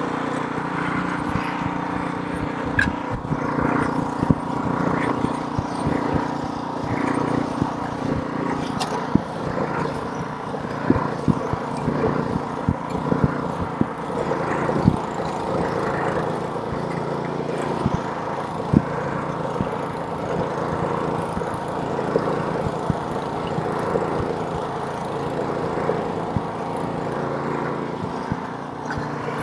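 Small-engine snowblower running steadily, with irregular sharp clicks and knocks scattered through it.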